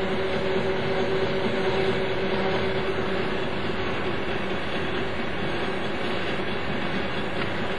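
Centre lathe running as it turns a smaller diameter on the end of a steel shoulder bolt: a steady mechanical running noise, with a hum that fades out over the first few seconds.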